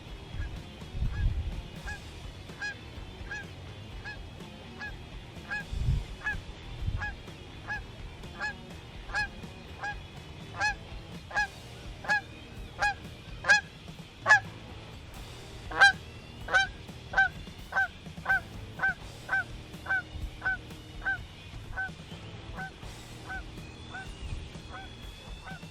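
A long series of turkey yelps: short, evenly repeated notes, about one and a half a second, growing louder toward the middle and then easing off. A few low thumps sound near the start and about six seconds in.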